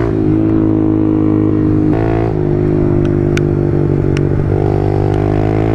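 Kawasaki KLX110 pit bike's small single-cylinder four-stroke engine running under way on the road. Its note changes about two seconds in, as at a gear change, then climbs slowly as the bike speeds up.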